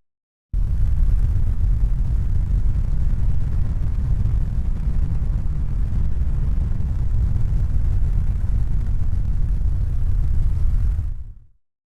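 Steady low rumbling noise, with no distinct tones or knocks. It starts abruptly after a half-second of silence and fades out near the end.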